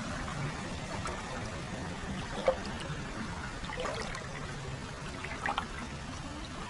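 Hot-spring water pouring steadily into a free-flowing (kakenagashi) foot bath, a continuous trickle and splash with a few short, louder splashes.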